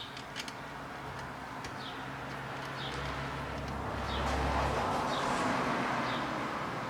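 Faint background ambience with a short high chirp repeating about once a second, like a bird calling, and a low rumble that swells and fades in the middle.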